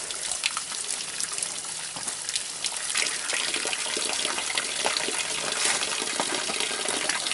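Cold running water gushing and splashing, with many small splashes.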